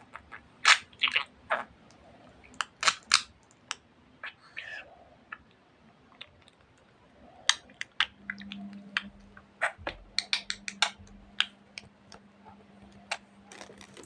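Pet budgerigar making sharp beak clicks and short chirps in quick, irregular clusters, with a brief warbling call about four and a half seconds in.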